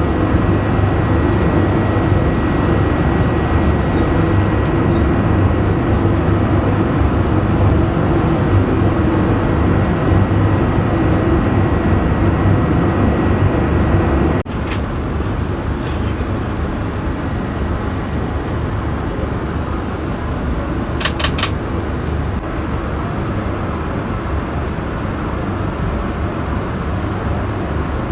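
Steady cabin roar inside a Boeing 787-8 airliner in flight: engine and airflow noise with a low hum. It drops a little in level about halfway through, and a few quick clicks come soon after.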